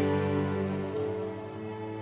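Soft keyboard chords held and fading away, a slow sustained backing with no beat.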